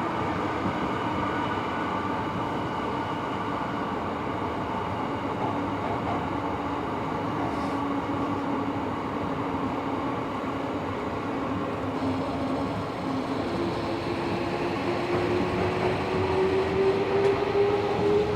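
Tobu 70000 series electric train running, heard from inside the passenger car: a steady rumble of wheels on rail under a motor whine. The whine falls slowly in pitch at first, then about two-thirds of the way through a new whine rises in pitch and the sound grows louder.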